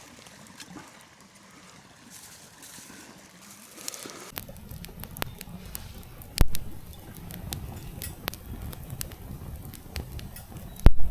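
Thin wood kindling on a small campfire cracking and snapping: scattered sharp cracks from about four seconds in, two of them loud, over a low rumble.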